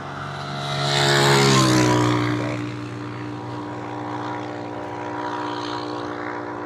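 An engine passes close by, getting louder and then dropping in pitch as it goes past between one and two seconds in; a steady engine hum carries on after it.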